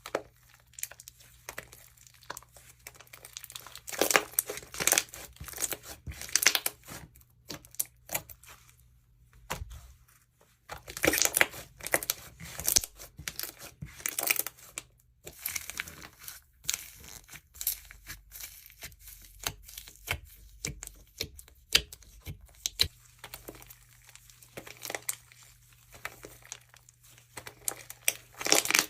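Jewelry slime, slime packed with beads and charms, being squeezed and worked: irregular bursts of crackling and clicking with short pauses between them.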